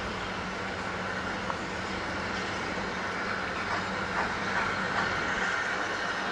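Steam locomotive sound: a steady hiss over a low hum, with a few faint clanks, growing a little louder in the second half.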